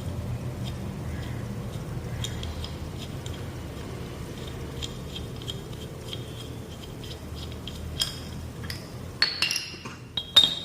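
Loose metal parts of a dismantled car AC compressor clinking and knocking as they are handled and set down, with several sharper clinks near the end, over a steady low hum.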